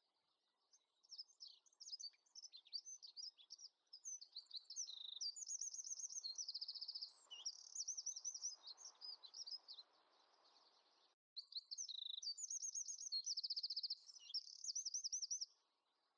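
A songbird singing in rapid high chirps and fast trills. The song starts about a second in, breaks off abruptly for a moment near the middle, then resumes and stops shortly before the end.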